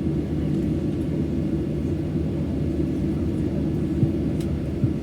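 Steady low rumble inside a Boeing 737-800's passenger cabin, with a few faint clicks about four seconds in and just before the end.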